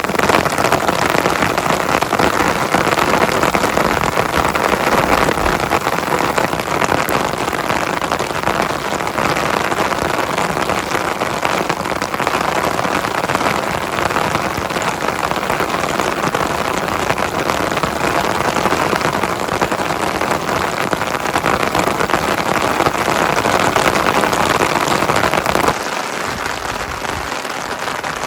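Heavy rain falling steadily, a dense hiss of many drops. About two seconds before the end it suddenly becomes somewhat quieter.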